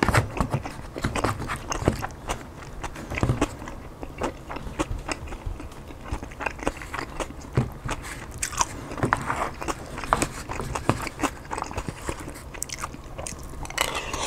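Close-miked chewing and biting of a chicken burrito bowl, with irregular wet smacks and crunches, and a spoon scraping the takeout bowl; a louder mouthful near the end.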